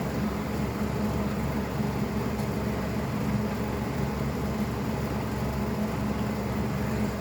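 Steady low machine hum with a constant drone and no sudden sounds.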